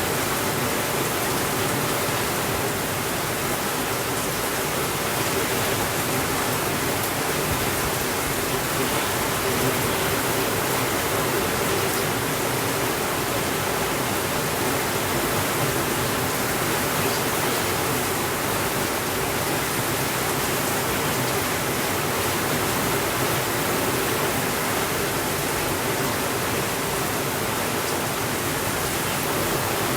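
Steady rainfall: an even hiss that holds at the same level throughout, with no drops standing out and no swells.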